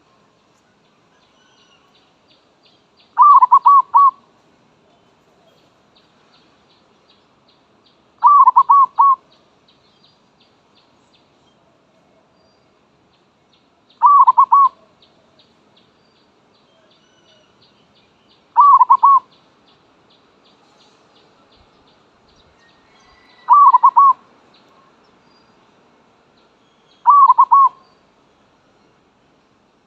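Zebra dove cooing: six short calls of a few quick coo notes each, about five seconds apart. Faint high ticking runs in the background.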